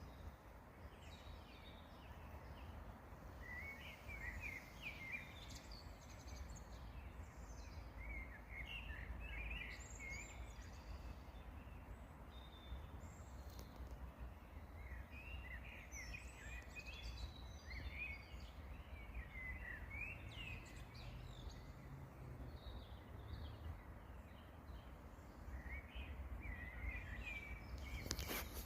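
Songbirds singing in short bursts of quick chirps every few seconds, over a steady low rumble.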